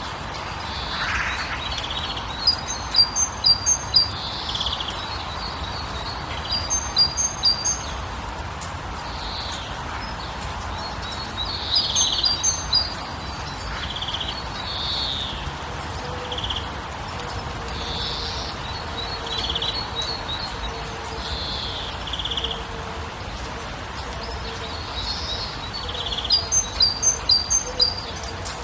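Songbirds calling: a run of five or six short, high chirps repeats every few seconds, with softer single notes in between, over a steady background hiss.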